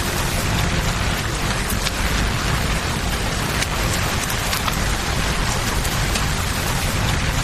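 Steady rain hissing over a low, continuous rush of river water, with scattered sharp crackles and pops from a campfire.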